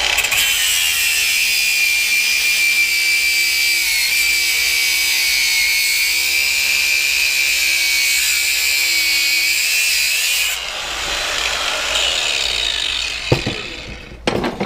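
Handheld power tool running with a steady high whine as it cuts through the copper windings of the power washer's electric motor. It winds down about ten seconds in, followed by a couple of sharp knocks near the end.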